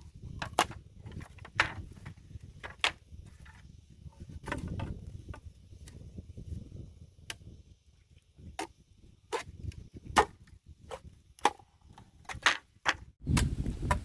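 Sharp, irregular knocks of a hand tool striking wood, roughly one a second, over a low outdoor rumble.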